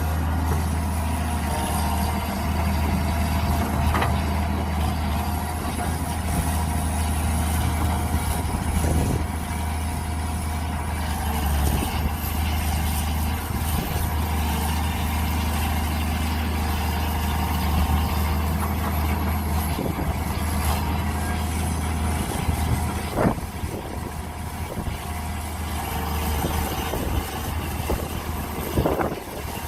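Mini excavator engine running steadily, with a few sharp knocks along the way. The low drone of the engine lightens about three-quarters of the way through.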